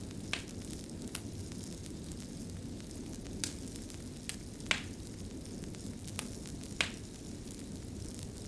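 Fire crackling: a steady low rumble of flames with about seven irregular sharp pops and snaps, the loudest two about halfway through and near the end.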